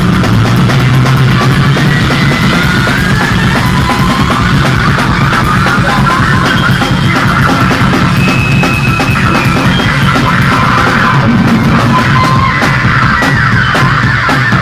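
Loud live rock music: a heavy, sustained low bass line under fast, dense drumming, with high squealing tones over the top.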